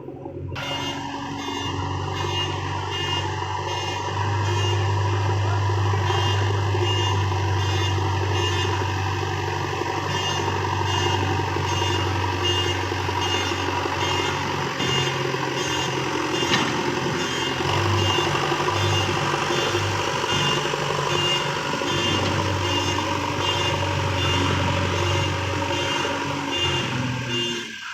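Diesel engine of a JCB 3DX backhoe loader running under work, with its reversing alarm sounding a steady series of short, even beeps. The engine note dips briefly a few times in the middle.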